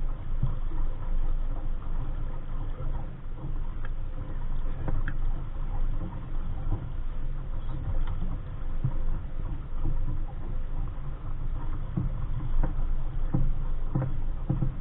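Wind rumbling and buffeting against the microphone aboard a small sailboat under way, with water splashing and a few light knocks scattered through it.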